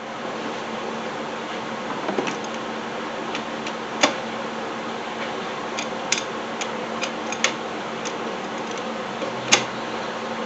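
Scattered sharp clicks and light knocks from tools and a bolt being handled while working on an engine mount, about half a dozen, over a steady background hum.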